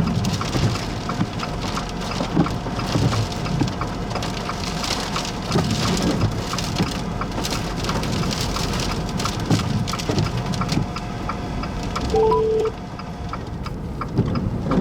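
Rain falling hard, with many sharp drop impacts, from a severe thunderstorm. A brief steady electronic tone sounds about twelve seconds in.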